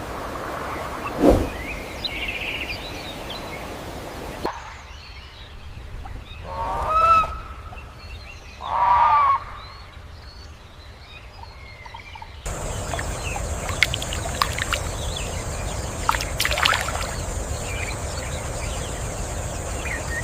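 Rainforest ambience that changes abruptly twice: a hiss, then a quieter stretch in which a bird gives two loud, harsh calls about two seconds apart, then a louder hiss with a steady high-pitched tone and scattered clicks.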